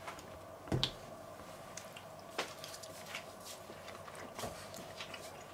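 A person quietly chewing a bite of meat, with a couple of soft clicks about one and two and a half seconds in.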